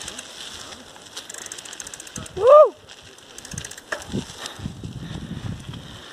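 Bicycle freewheel ticking while coasting, with a short, loud tone that rises and falls in pitch about two and a half seconds in.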